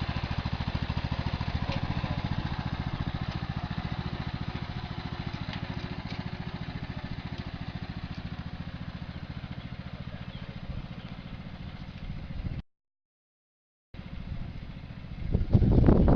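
A small engine running steadily with a rapid, even putter, fading slightly over time. It cuts off abruptly about twelve seconds in, and after a second of silence a louder rushing noise builds near the end.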